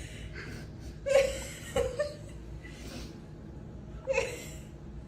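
A person laughing softly in a few short, breathy bursts, over a steady low hum.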